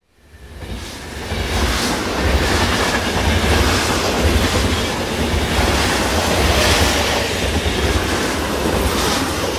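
A train running along the rails with a steady rumble and wheel clatter, fading in over the first second or so.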